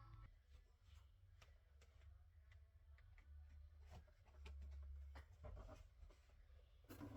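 Near silence: a faint low hum with scattered light clicks and taps.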